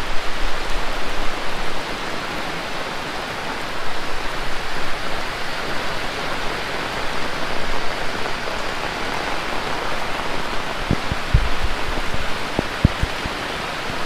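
Heavy rain pouring steadily. A few short knocks come through near the end.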